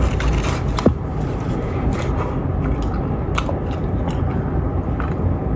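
A person chewing food close to the microphone: soft, wet chewing with a few scattered clicks, over a steady low rumble.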